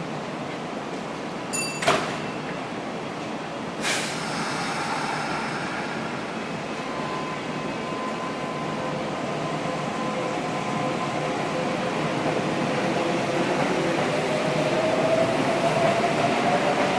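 Kintetsu electric train departing: the doors shut with two sharp knocks about two seconds apart, then the train pulls away with a motor whine that rises slowly in pitch and grows louder as it picks up speed.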